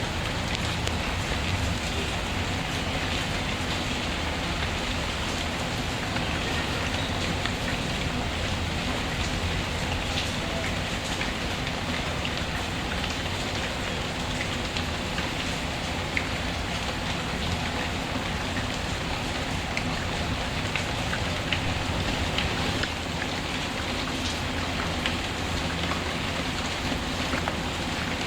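Steady rain, with small pops and crackles from a wood fire scattered through it.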